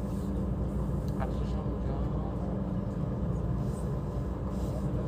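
Steady low rumble of city traffic and engines, with faint, indistinct voices in the background.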